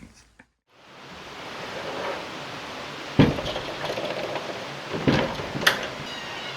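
A steady hiss-like noise fades in after a moment of near silence, with a few sharp knocks, one about three seconds in and two more around five seconds in.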